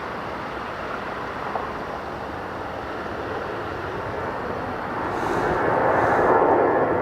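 Jet airliner engine noise near the runway, a steady rushing that grows louder about five seconds in as the aircraft comes closer.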